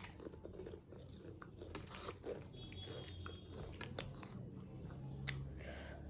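Close-up chewing of a crunchy spicy snack: soft, scattered crunches and small wet mouth clicks.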